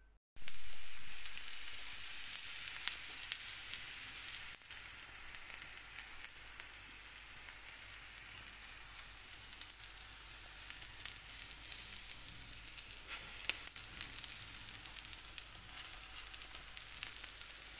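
Tikkis shallow-frying in oil on a flat tawa griddle over a low gas flame: a steady sizzle thick with small crackling pops, with a few sharper pops about three-quarters of the way through.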